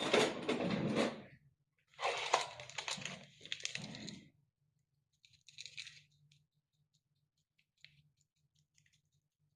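Two bursts of rustling and handling noise, one at the start and a longer one from about two to four seconds in, then a few faint clicks.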